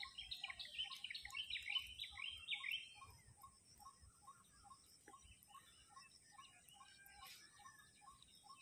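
Birdsong: a run of quick, falling chirps for the first three seconds or so, then fainter calls, with a softer, lower note repeating about twice a second underneath.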